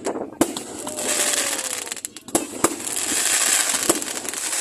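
Fireworks going off: continuous crackling with several sharp bangs spread through, and a faint gliding whistle in the middle.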